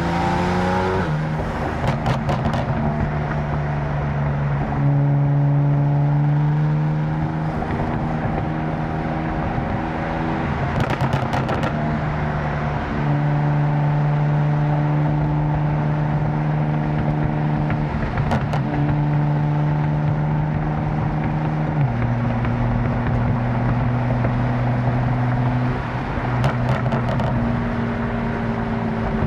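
Tuned BMW M4 twin-turbo straight-six running at steady cruising revs; its drone holds one pitch for several seconds, then steps to another, a few times. A few sharp exhaust cracks are scattered through, in a short cluster about two seconds in and singly later.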